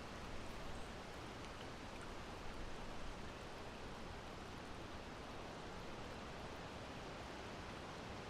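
Steady breeze blowing: an even, continuous hiss with no distinct gusts.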